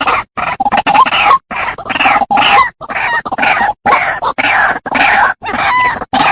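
White-breasted waterhen (ruak-ruak) calling: a fast, unbroken run of short repeated notes, about three a second, each with a bending tone.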